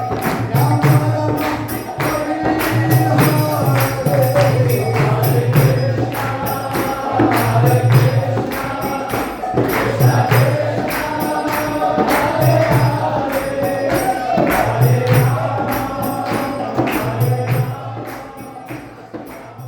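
Kirtan: voices singing a devotional chant together over a low sustained drone, with steady jingling percussion keeping the beat. The music fades out near the end.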